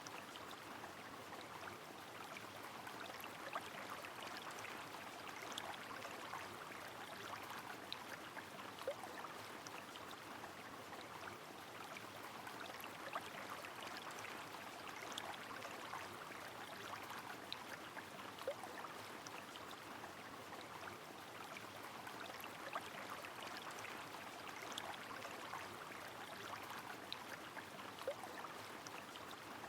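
Steady rushing of a river under rain, with scattered sharp drips and splashes of raindrops.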